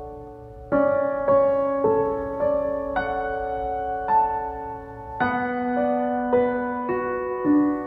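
Soft, slow piano music: sustained notes and chords played one after another, with a gentle struck note about every half second to second.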